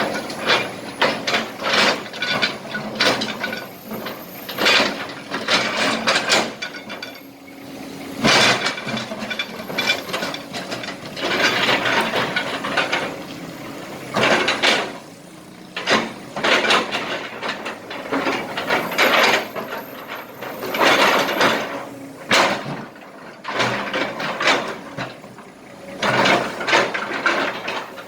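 Broken asphalt and small rocks clattering and scraping in bursts as a Kobelco SK200 excavator's steel bucket scoops and dumps them, over the steady hum of its diesel engine.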